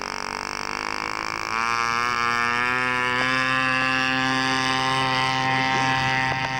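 Model airplane piston engine running; about a second and a half in its note rises a little as it throttles up, then holds steady.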